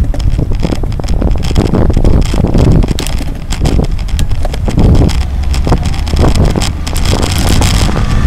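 Wind buffeting the microphone of a camera riding along on a cross bike: a loud, uneven low rumble that surges and falls, with many small clicks and knocks from the moving bike.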